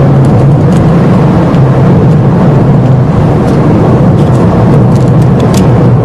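A car driving along, heard from inside: a steady, loud rumble of engine and road noise with no change in pace.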